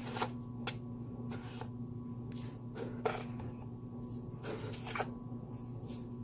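A few light clicks and scrapes of coffee and its tub being handled while coffee is made, over a steady low hum.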